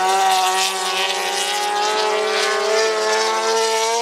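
MotoGP racing motorcycle engine held at steady high revs, its pitch creeping slightly upward.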